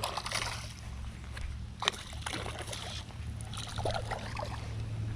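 Water sloshing and splashing in three short bursts, over a steady low hum.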